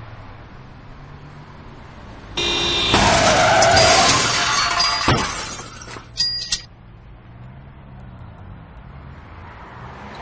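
Car crash heard from inside a vehicle: a sudden loud smash of crunching metal and shattering glass about two and a half seconds in, lasting a couple of seconds, with a sharp bang near the end. A brief high chime sounds about six seconds in, over a low steady engine hum.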